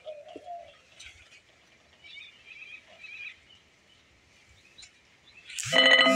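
Small birds chirping faintly and on and off, then a sudden loud call that rises in pitch near the end.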